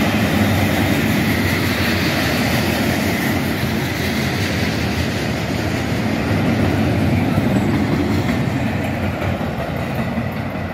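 Freight flatcars loaded with long rail rolling past close by: steady, loud noise of steel wheels running on the track.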